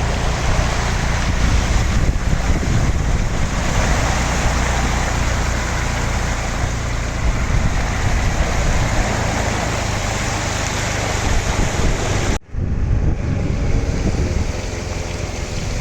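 Wind buffeting the microphone on a moving motorbike, a steady rushing noise with a heavy low rumble. It cuts out for an instant about twelve seconds in.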